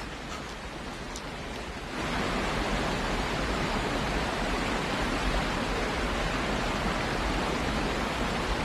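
Steady rush of a fast river pouring over a waterfall, which gets louder about two seconds in.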